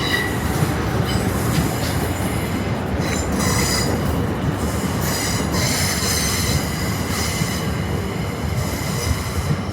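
A passenger train running over the rails, with a steady rumble and the wheels squealing off and on in high tones.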